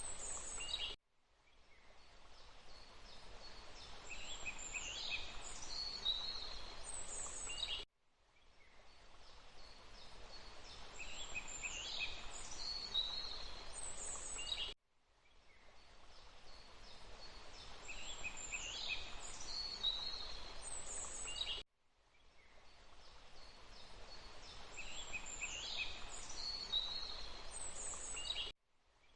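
Songbird chirps and short song phrases over a faint steady hiss, in a short recording looped about every seven seconds. Each repeat cuts off abruptly to near silence, then fades back in.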